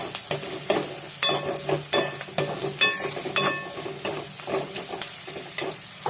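Spoon stirring and scraping fried onions and ground spices in ghee in a metal pan, the masala sizzling, with repeated knocks of the spoon against the pan that ring briefly.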